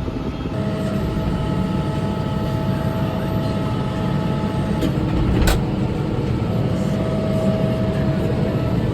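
Kubota M5-111 tractor's diesel engine running steadily under load while it pulls a John Deere 450E round baler through the hay, with a steady whine over the low rumble. A single sharp knock comes about five and a half seconds in.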